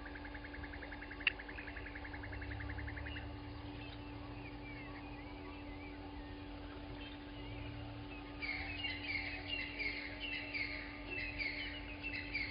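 Wild birds calling at dawn: a fast, even trill for the first three seconds, then a lively burst of short chirps and twitters from about two thirds of the way in.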